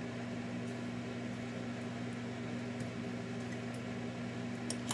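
Steady low electrical hum from a Lionel toy train set under power, with one sharp click near the end.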